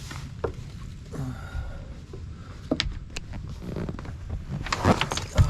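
Handling noise: scattered clicks and knocks with a few low thuds as things are moved about in the boat, the loudest cluster near the end.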